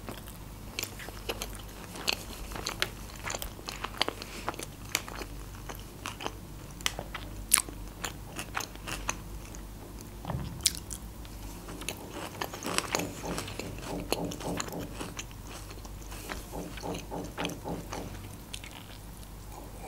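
Close-miked chewing of sushi rolls and pickled ginger: wet mouth clicks, smacks and crisp crunches, with a soft low thud about halfway through.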